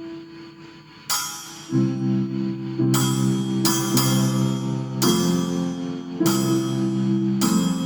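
Drum kit and keyboard played together: held keyboard chords, with cymbal crashes struck about six times from about a second in, each ringing out over fuller low chords.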